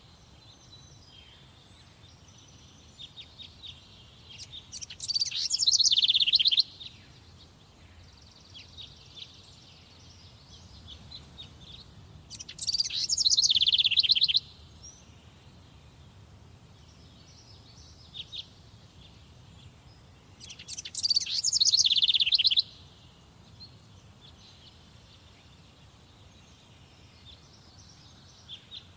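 Songbird in a summer forest singing a loud, rapid trilled phrase that falls in pitch, three times about 8 seconds apart, with softer chirps from other birds in between.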